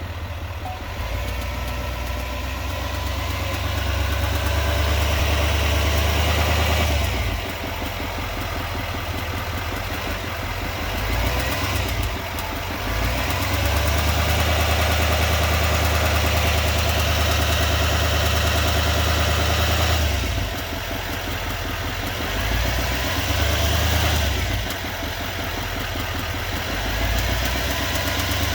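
2020 Silverado 2500HD's 6.6-litre Duramax turbo-diesel V8 running with a fast, even ticking over its low hum, which the owner is unsure is normal. The loudness rises and falls several times.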